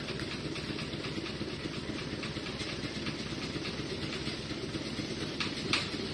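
110 PS non-turbo diesel truck engine idling steadily through a 'cung' three-chamber exhaust muffler, a rapid, even pulsing with a deep bass tone. Near the end there are two short, slightly louder blips.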